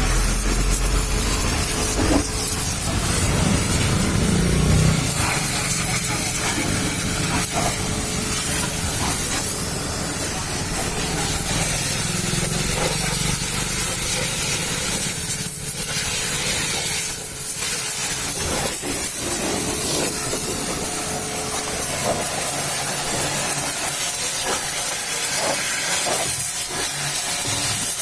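Pressure washer jet spraying water with a steady hiss, a low rumble in the first few seconds and a faint steady hum underneath.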